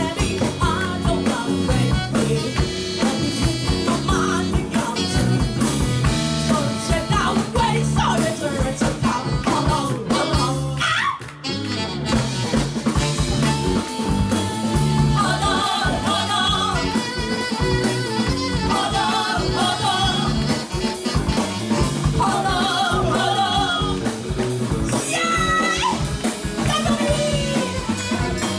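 Live rock band playing an instrumental passage with drums, bass and guitar, with a lead instrument carrying wavering melodic lines in the second half; the music drops out briefly about eleven seconds in.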